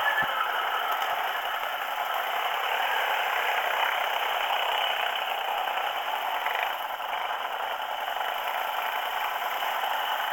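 Quad bike (ATV) engine running steadily, with rattling.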